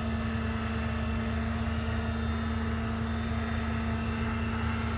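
6.4-liter gasoline Hemi V8 of a Ram 5500 bucket truck running steadily at raised PTO idle, driving the boom's hydraulics, with a constant hum over the engine drone.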